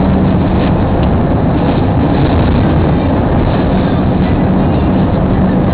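Steady, loud drone of a car driving on the highway, heard from inside the cabin: engine hum under road and tyre noise.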